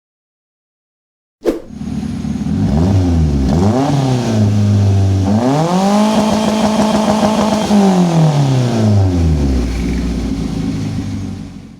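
Car engine revved through an aftermarket stainless-steel racing exhaust. It begins abruptly about a second and a half in, with two quick blips, then a longer rev held for about two seconds that falls back to idle and fades near the end.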